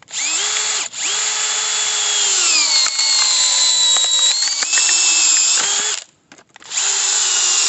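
Cordless hammer drill in low gear and screw mode, driving a 42 mm screw-cone firewood splitter bit into a log: the motor whines in several runs, its pitch sinking a few seconds in as the bit bites into the wood under load. It stops about six seconds in and starts again about a second later.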